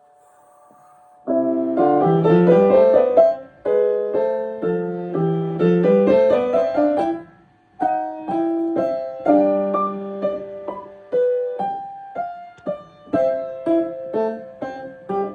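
Piano playing fast runs of notes in rising, repeated figures, starting about a second in, with a short break around the middle before shorter, detached notes and chords.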